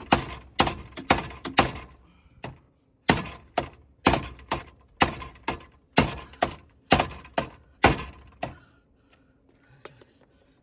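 A hammer beating on a car's dented sheet-metal body around the tail light, about two blows a second with a short pause between series, to straighten crash damage. The blows stop well before the end.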